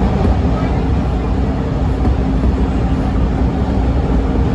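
TTC T1 subway train running between stations, heard from inside the car as a steady, loud rumble of wheels on rail and running gear.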